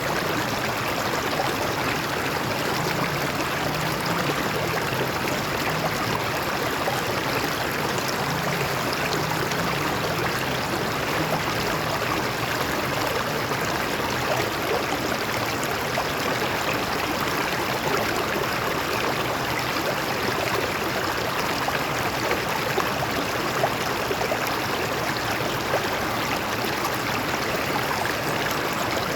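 Stream water flowing and splashing over rocks, a steady rushing with small gurgles.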